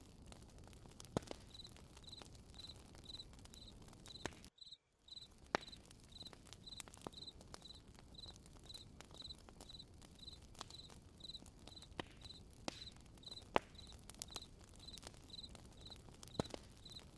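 Campfire crackling with scattered sharp pops, over a cricket chirping steadily two or three times a second. Everything drops out briefly about four and a half seconds in.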